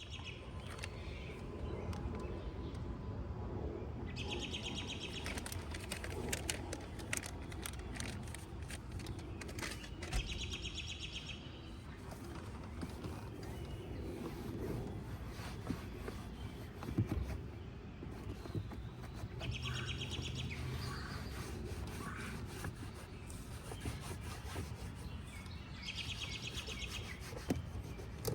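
A bird singing short, rapid trills four times, about six seconds apart, over a steady low rumble and scattered small clicks and rubbing noises.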